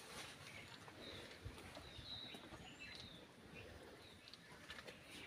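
Near silence outdoors, with faint short bird chirps repeating roughly once a second.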